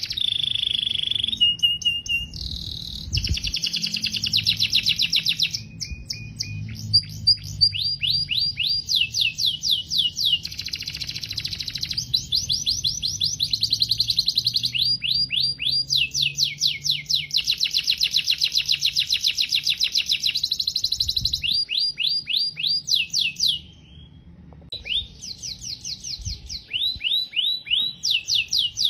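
Domestic canary singing a long, continuous song made of rapid trills: runs of quick repeated notes, each run at a different pitch and speed. There is a brief pause about 24 seconds in.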